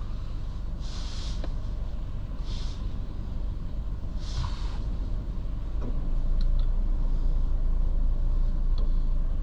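Car running, heard from inside: a steady low engine and road rumble that grows a little louder about halfway through, with three short hisses in the first half.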